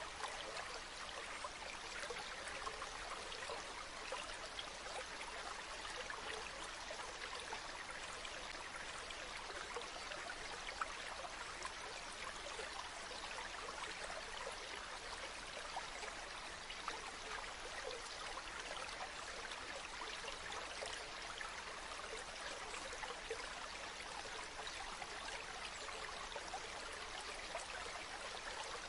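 Running water flowing and splashing steadily, a stream or small waterfall with a dense patter of fine droplets.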